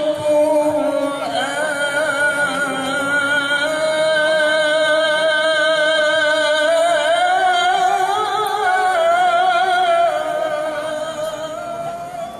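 A Quran reciter chanting in the melodic mujawwad style, drawing out one long ornamented phrase with a wavering vibrato that slowly rises in pitch and eases off near the end.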